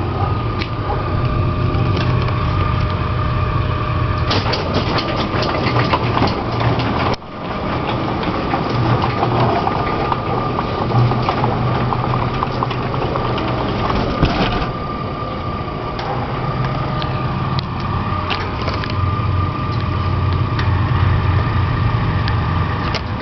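Garage door opener motor running steadily while the door travels, with rattling and clicking from the door and its track. There is a short break about seven seconds in.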